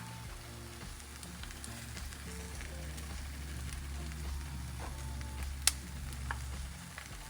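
A sandwich sizzling as it fries in a pan, with a few sharp clicks, the loudest about five and a half seconds in. Background music plays underneath.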